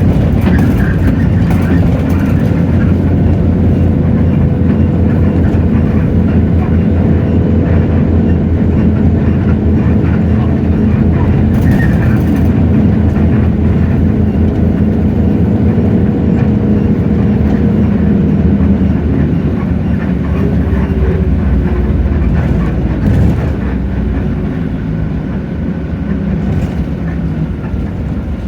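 Hino J08E-VN 7.7-litre diesel engine of a city bus running steadily, heard from inside the bus, with the engine note easing off about two-thirds of the way through. A few short rattles can be heard in between.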